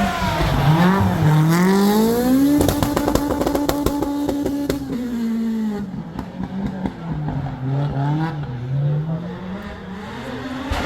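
Historic rally car engine revving hard. Its pitch climbs over the first couple of seconds and holds high under a spatter of sharp clicks, then falls away and runs lower and quieter, rising again near the end.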